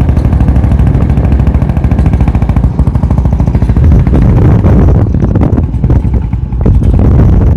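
Motorcycle fitted with a diesel engine converted to run on petrol, running loud with a rapid, even firing beat. The beat slows and drops back about five seconds in, then picks up again near the end. The owner says this engine still often detonates, and suspects the ignition timing or the fuel.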